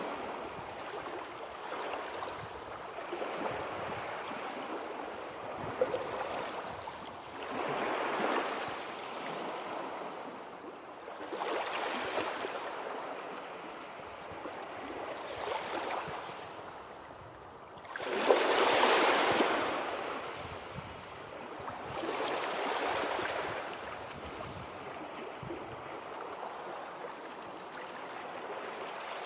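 Sea surf: waves washing in and drawing back, swelling about every four seconds, with the loudest wave breaking suddenly about two-thirds of the way through.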